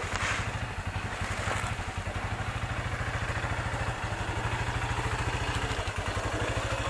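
Engine idling steadily, with a fast, even low putter.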